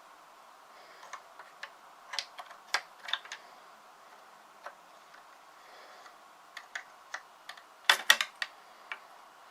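Scattered light clicks and knocks, with a quick cluster of louder ones about eight seconds in: wooden sticks and parts of a primitive twitch-up snare being handled.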